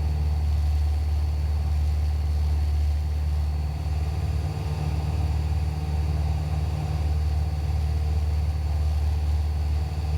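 Cessna 172's piston engine and propeller droning steadily in cruise, heard inside the cabin.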